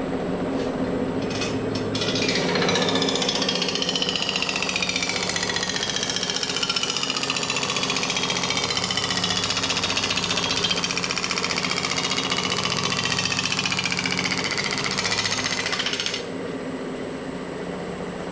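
Power hammer running, its ram striking a sheet-metal panel in a fast continuous patter while the panel rings with shifting, mostly falling tones. Near the end the ringing hammering stops and the machine runs on more quietly.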